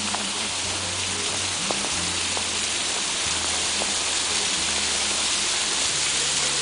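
Waterfall rushing with a steady, even hiss, and a low hum coming and going underneath.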